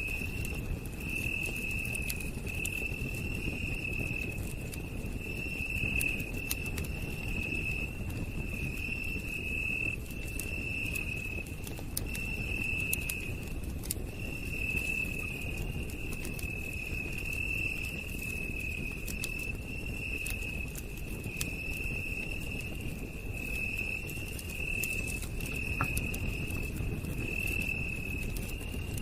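Night insects calling in a steady pulsing trill on one high pitch, over a campfire crackling with frequent small sharp pops and a low hiss.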